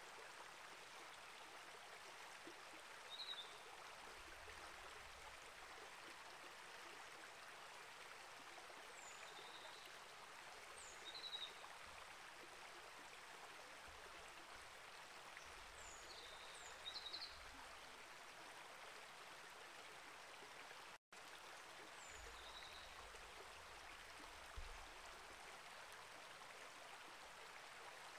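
Faint, steady flow of a small rainforest creek. Over it a bird gives short, high chirps, singly and in pairs, several times. The sound drops out for an instant about three-quarters of the way through.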